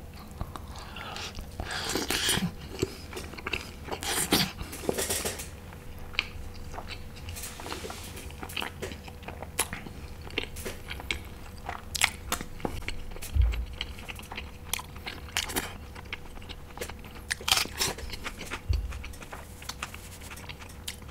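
A person chewing one very big mouthful of food with a large egg on top, mostly from an egg masala: a steady run of irregular clicks and smacks from the mouth.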